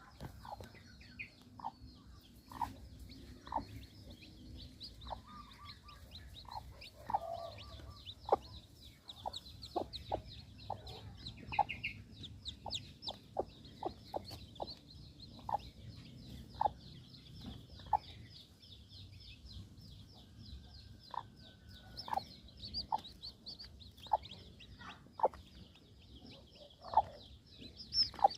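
Newly hatched kampung chicks peeping in a dense, continuous high-pitched chorus, with short, lower clucks scattered through it about once a second.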